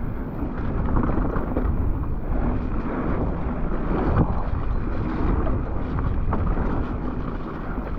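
Wind buffeting the microphone with a steady low rumble, over scattered knocks and rattles of a mountain bike on a wet, muddy trail.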